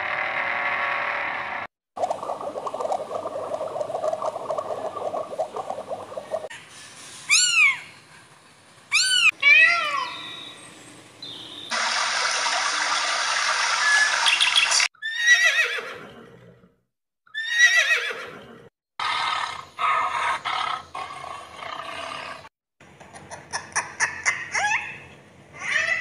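A series of different animal calls, one clip after another, with abrupt cuts and short silences between them; among them a run of quick rising-and-falling chirps and, near the end, harsh repeated calls.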